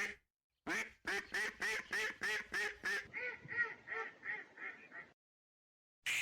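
A duck quacking: a rapid run of quacks, about three a second, that grows softer partway through, then a single quack near the end.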